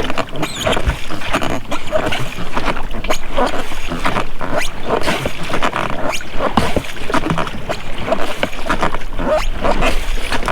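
Oars working in the rubber rowlocks of an inflatable boat, squeaking with the strokes, with water splashing from the oars.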